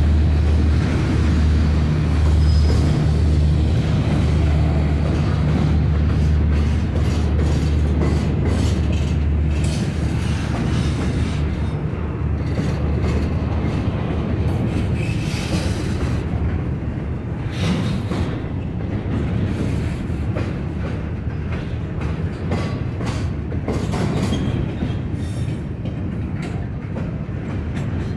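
Norfolk Southern freight train passing. A deep engine drone fades after about ten seconds, leaving the steady rolling clatter of the cars with sharp clicks of wheels over rail joints.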